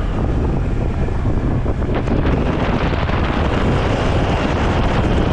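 Wind rushing over the microphone on a moving motorbike, with the bike's engine and road noise steady underneath.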